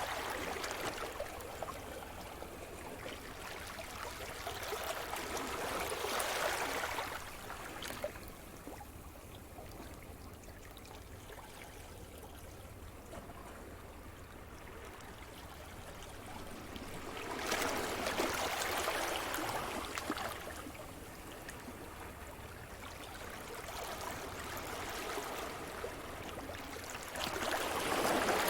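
Sea surf: waves breaking and washing up the shore, the rush of water swelling and ebbing several times, with a quieter wash between the waves.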